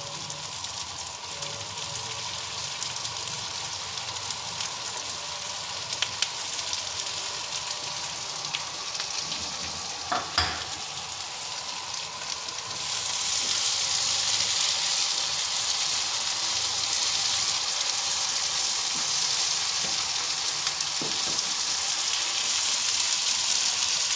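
Minced chicken masala frying in hot oil in a pan, a steady sizzle as it is stirred. About halfway through the sizzle grows louder and brighter as fresh chopped coriander goes into the oil. A couple of sharp clicks come in the first half.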